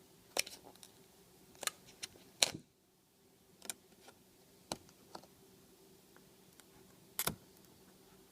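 Scattered sharp clicks and knocks of things being handled, about a dozen in all, the loudest about half a second, two and a half and seven seconds in.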